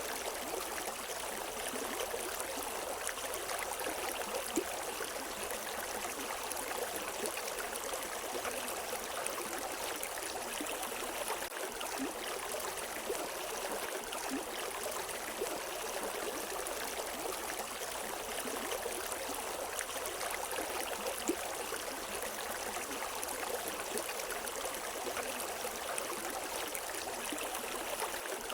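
River water flowing over rocks: a steady rushing and splashing, with small gurgles and drips now and then.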